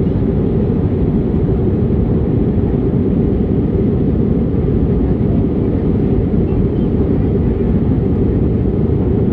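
Steady cabin noise of an airliner climbing after takeoff: a loud, even, low rumble of engines and airflow that does not change.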